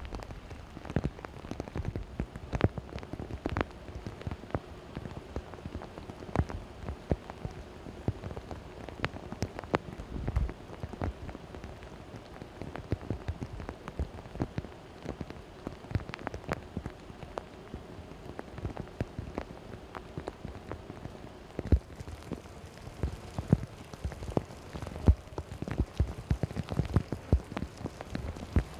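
Heavy rain falling, with many drops striking hard surfaces close by in a dense, irregular patter over a steady wash of rain.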